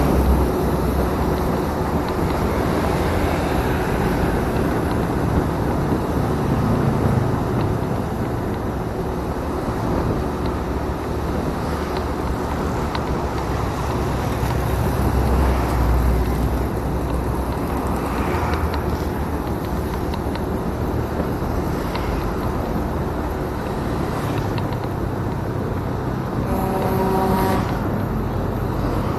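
Motorcycle riding noise: wind rushing over the action camera's microphone, mixed with the engine and passing traffic. A brief pitched tone sounds near the end.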